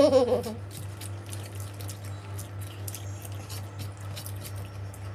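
Wet mouth sounds of eating by hand: irregular chewing and lip-smacking clicks, after a brief voiced sound at the very start. A low steady hum runs underneath.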